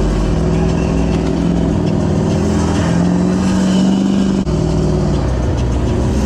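Truck engine running loud and revving, its pitch rising slightly through the middle, then dropping back after a brief dip about four and a half seconds in.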